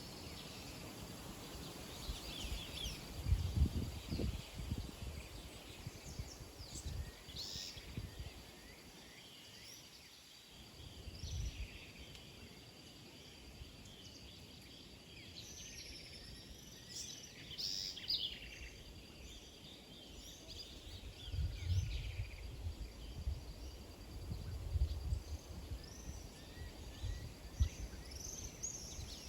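Many birds chirping and calling in short, overlapping notes, over a faint steady high tone, with low rumbles now and then.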